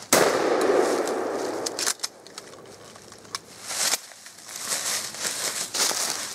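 A single shotgun shot right at the start, its report rolling away over about two seconds, fired at a coyote that has already been hit. Faint rustling and a couple of small clicks follow.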